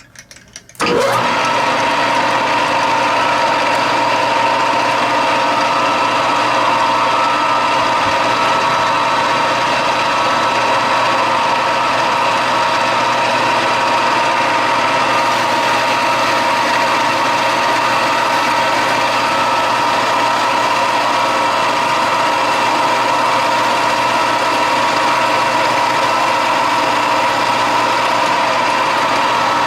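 Metal lathe started about a second in, then running steadily with a constant whine, as it takes a spring pass on a steel R8 collet.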